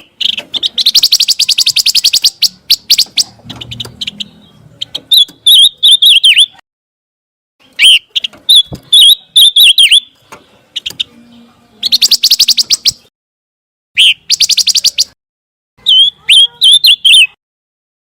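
Recorded song of a pancawarna bird: phrases that alternate a fast, rattling chatter with a run of high, wavering whistled notes. The phrases repeat several times, with short pauses between them.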